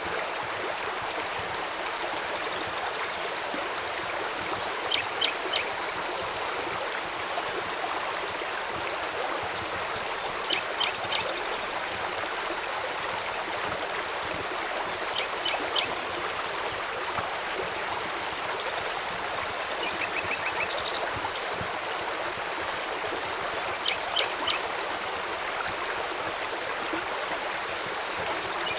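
Steady rushing of a flowing river with rain. Every five seconds or so, short clusters of high, quick clicks or chirps sound over it, four times in all.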